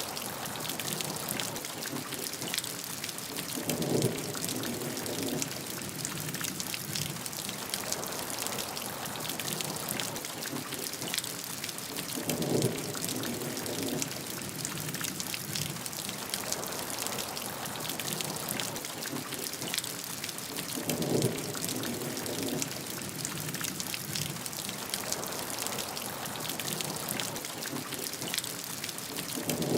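Steady rainfall with a dense patter of individual drops. A short, lower swell rises out of the rain about every eight and a half seconds, four times.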